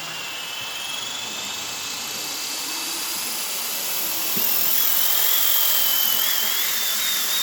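Blade 230s electric model helicopter with a five-blade main rotor spooling up. A high motor whine and rotor hiss rise in pitch and loudness for about four seconds, then level off at flying speed with a slight waver in pitch.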